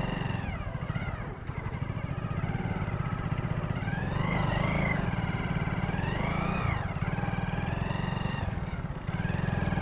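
Motorcycle engine running hard under load in sand, its pitch rising and falling as it revs up and eases off twice, about four and six seconds in: the bike, on road tyres, is struggling for grip.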